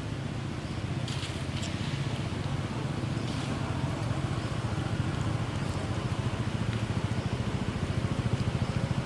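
Steady low rumble of a small engine running, with a fast, even pulse.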